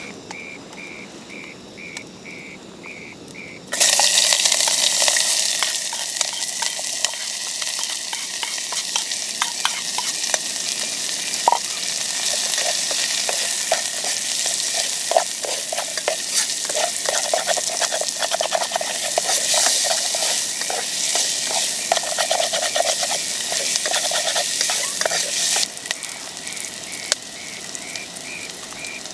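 Food sizzling loudly in a hot pan, switching on abruptly about four seconds in, with many short scrapes and taps of a spatula as it is stirred; the sizzling drops sharply near the end.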